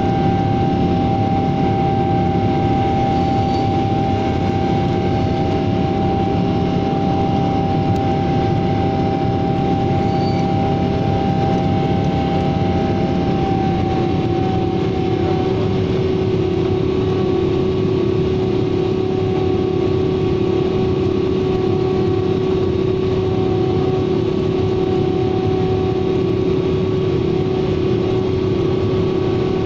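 Airliner jet engines and airflow heard inside the passenger cabin during the climb after takeoff: a steady noise carrying several engine tones, which shift about halfway through as one higher tone fades and a lower one grows stronger.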